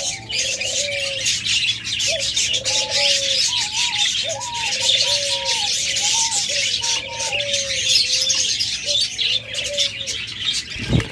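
Flock of caged budgerigars chattering and chirping continuously, with a string of lower, repeated cooing calls running through it. A brief low thump comes near the end.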